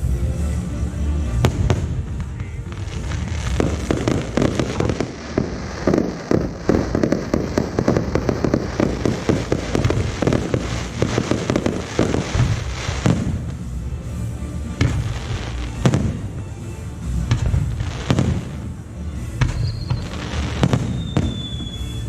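Aerial fireworks show: shells bursting with repeated bangs and crackling, thickening into a dense run of rapid bursts in the middle. Near the end a couple of whistling shells glide down in pitch between the bangs.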